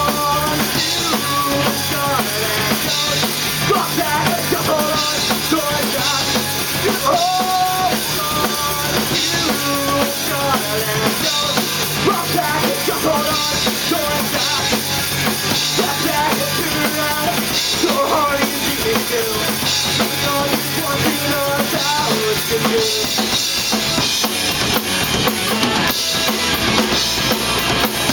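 Live rock trio playing: electric guitar melody over bass guitar and a drum kit, with no singing. About three quarters of the way through, the low sustained part drops out, leaving the drums more exposed.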